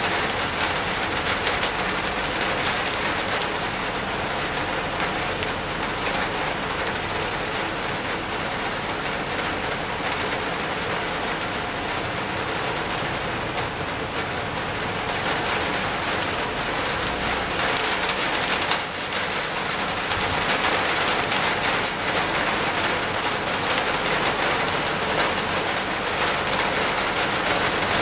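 Heavy rain falling steadily on rock and foliage, growing a little louder and heavier about two-thirds of the way through as the downpour intensifies.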